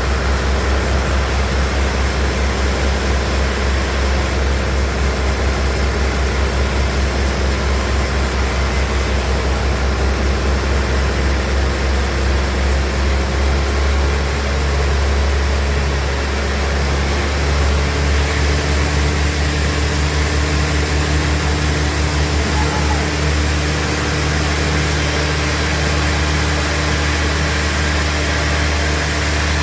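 Band sawmill machinery running with a steady, heavy low drone. About seventeen seconds in, its tone shifts as the machine's load changes.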